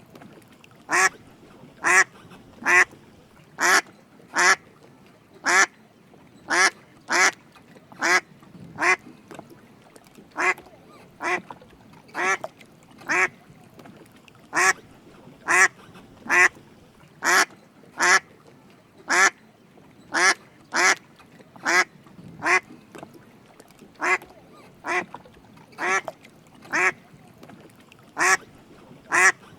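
Drake mallard quacking: short calls, singly or in quick pairs, repeating about once a second.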